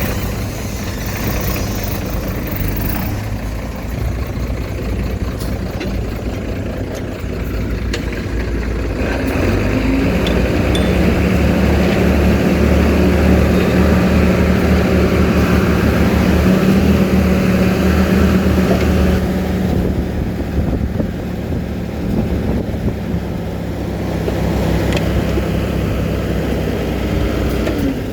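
Heavy diesel earthmoving machinery engine running. It works harder and louder from about ten seconds in until about twenty seconds in, then eases back.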